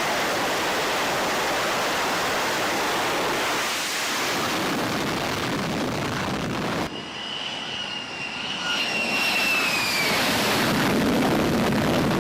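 Jet aircraft engine noise. First a steady loud rush, then a high engine whine that slowly falls in pitch while a deeper rumble builds toward the end.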